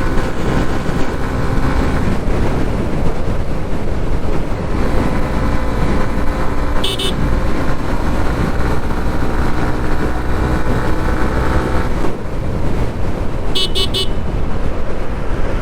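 A motorcycle riding at highway speed: steady wind and road noise with the engine running underneath. A vehicle horn toots briefly in quick pulses about seven seconds in, and again twice near the end.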